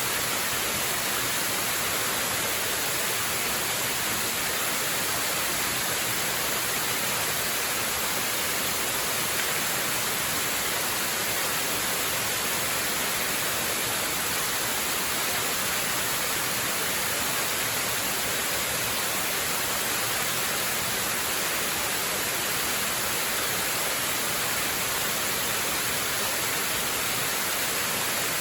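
Waterfall: a steady, unbroken rush of falling water, heavier in the hiss than in the rumble, with no change in level.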